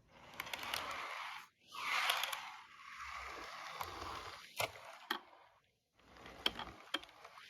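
Rustling noise broken by a few sharp clicks, stopping briefly twice.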